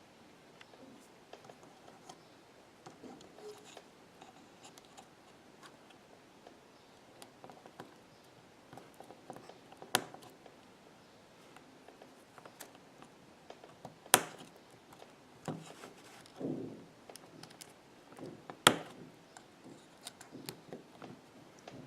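Flex-cable connectors being pressed onto an iPhone 6 logic board with small repair tools and fingers: faint scratching and light taps, with three sharp clicks spread through the stretch.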